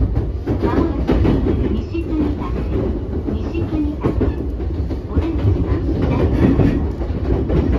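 Running sound inside the passenger car of a JR East E233 series 8000-subseries electric multiple unit: a steady rumble of wheels on rail, with frequent clicks and knocks from the track.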